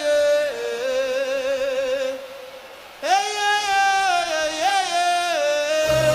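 Wordless singing voice holding long, wavering notes in two phrases, with a short dip between them; near the end low backing music comes in as the song gets under way.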